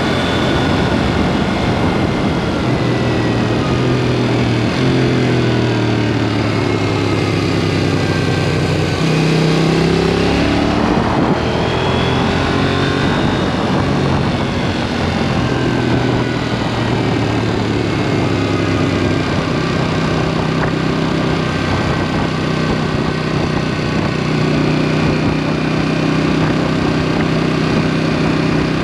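KTM 790 Duke's parallel-twin engine, through an aftermarket SpeedPro Cobra SPX exhaust, running on the move: its note rises and falls in steps as the rider works the throttle and gears, over steady wind and road rush.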